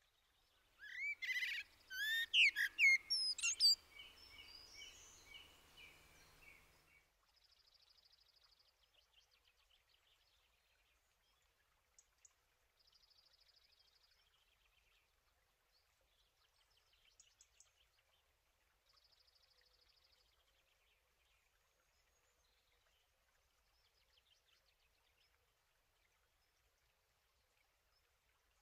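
Birds singing: a loud run of sweeping whistled notes in the first few seconds, then fainter trills that come back every few seconds.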